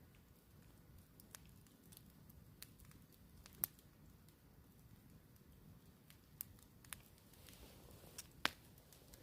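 Campfire crackling faintly, with scattered sharp pops at irregular intervals, the loudest about three and a half seconds in and again near the end.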